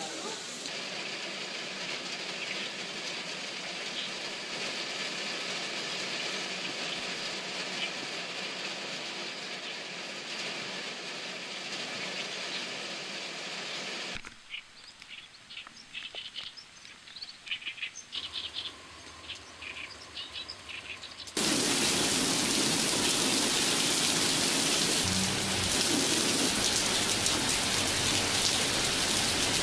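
Soundtrack of rain in three abrupt sections: a steady hiss, then a sudden drop about halfway to a quiet stretch of scattered drips and ticks, then heavy rain starting suddenly and much louder near three-quarters in.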